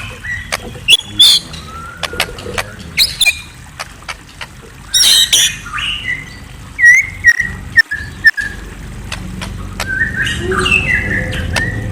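Murai songbird (a Copsychus magpie-robin) singing: a varied string of chirps, short whistled slurs and sharp clicking notes in phrases with brief gaps between them.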